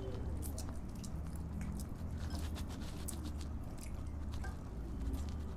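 A person chewing and biting food close to the microphone, with many small wet mouth clicks, over a low steady hum.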